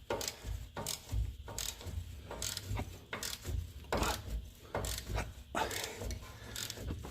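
Wrench clicking and ratcheting in short, irregular strokes as a very tight strut bolt is worked back and forth to free it without snapping it.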